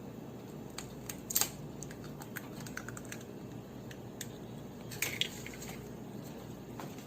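Light, irregular clicks and taps with two louder clatters, about a second and a half in and about five seconds in, over a steady low hum.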